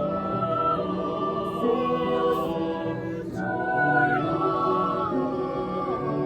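Four-part mixed choir (soprano, alto, tenor, bass) singing held chords in close harmony, the notes sustained and shifting together every second or so.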